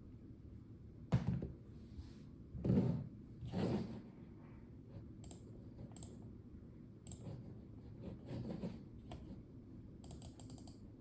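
Melgeek Mojo84 plastic mechanical keyboard: scattered keystrokes with pauses between them, a few heavier thuds about one, three and four seconds in, and a quick run of clicks near the end.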